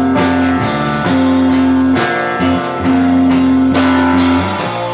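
Live rock band playing an instrumental passage between vocal lines: guitars with drums and cymbal hits about twice a second.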